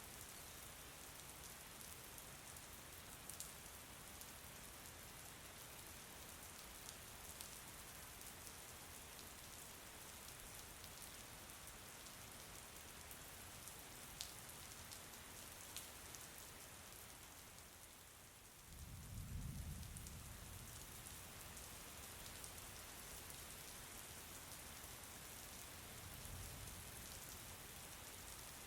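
Faint, steady rain falling, with scattered sharp drop clicks. About two-thirds of the way through a low rumble swells for a couple of seconds, and a fainter one comes near the end.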